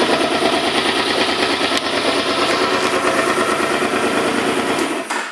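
Suzuki Boulevard C50T's fuel-injected V-twin idling with an even pulse, then shut off about five seconds in.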